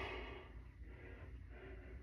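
A person breathing hard, with short breaths repeated about every half second.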